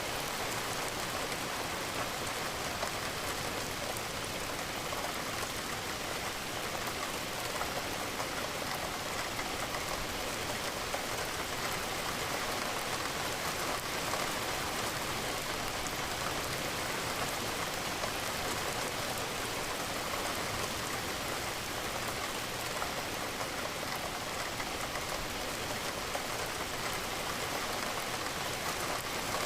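Steady rain falling against a window, an even, unbroken hiss with no single drops or thunder standing out.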